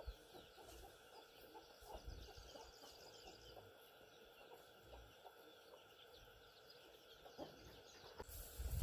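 Near silence with faint bird calls, including a short rapid trill a couple of seconds in, and a few small ticks; the noise rises just before the end.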